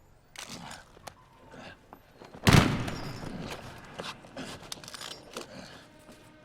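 Action-film sound effects: scattered sharp knocks and clicks, then a single loud bang about two and a half seconds in that rings on for about a second before fading into rumbling noise.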